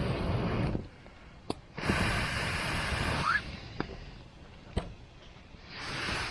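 Campfire crackling, with sharp pops about a second and a half in, near four seconds and near five seconds. Whooshing rushes of air, each about two seconds long, sweep over it three times, one with a brief rising whistle in the middle of the second.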